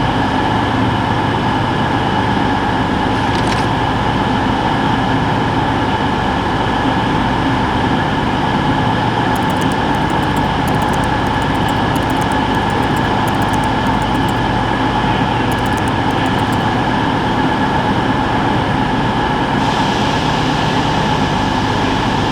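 Steady running noise of a moving vehicle, an even rumble with a faint steady hum and no change in pace.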